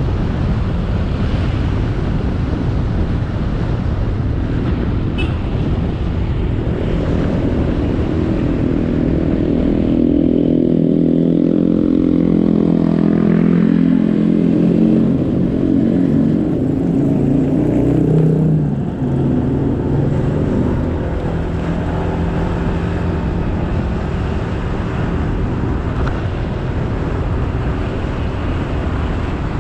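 Riding a motorcycle on the road: wind buffets the action camera's microphone over the steady running of the engine. For several seconds in the middle an engine note rises clearly above the wind and shifts in pitch, then drops back under the rush of wind about two-thirds of the way through.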